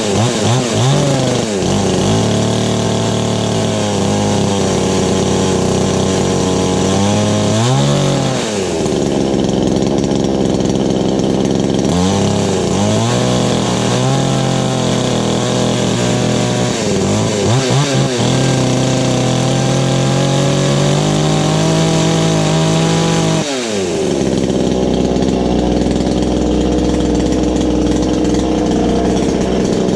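A Chinese-made 22-inch two-stroke chainsaw runs on its first start out of the box. Its engine speed rises and falls back several times, then drops sharply about three-quarters of the way through and settles into a steadier, lower run.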